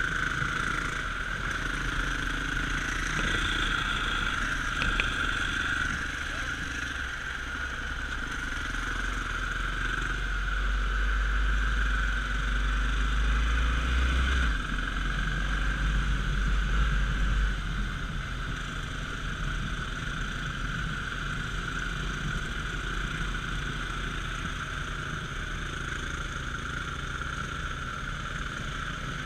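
Dirt bike engine running steadily while riding, with low wind rumble on the microphone that grows heavier about a third of the way in and eases again past the middle.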